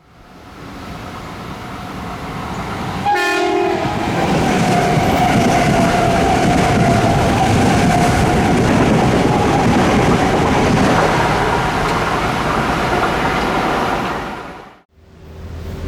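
Passenger train passing at close range: a short horn blast about three seconds in, then loud steady wheel and rail noise as the cars go by.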